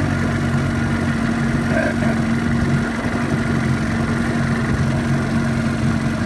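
Vintage Sea King 12 hp two-stroke outboard motor running at a steady speed, pushing the boat along.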